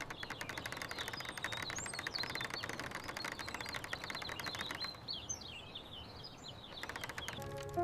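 Small birds chirping and twittering over a dense, fast ticking; the chirps grow busier about five seconds in, and the ticking stops just before the end.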